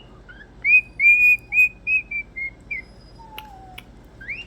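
Pet bird whistling a quick run of short, clear notes at one pitch, then a lower falling note with two sharp clicks a little past three seconds in, and a rising whistle near the end.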